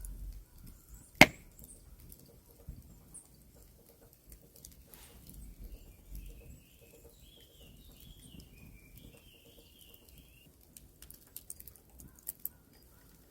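A bird calling in a warbling, twittering run of high notes for about five seconds in the middle. A single sharp knock comes about a second in, and a few light ticks near the end.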